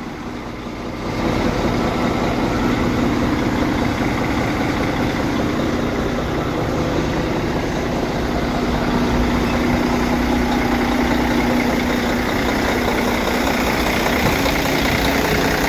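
Diesel semi truck engine idling steadily, getting louder about a second in, with a steady low hum running through it.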